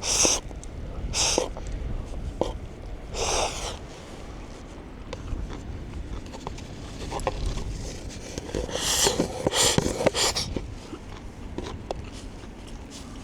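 A person eating noodles, with several short slurps and a longer run of slurping near the end, over a steady low rumble.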